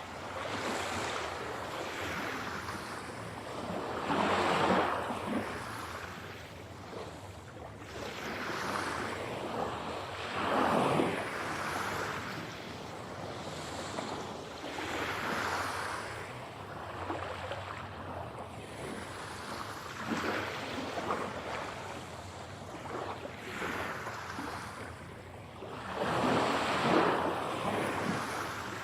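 Ocean waves breaking and washing on the shore, the surf rising and falling every few seconds, with the biggest swells about four seconds in, about eleven seconds in, and near the end.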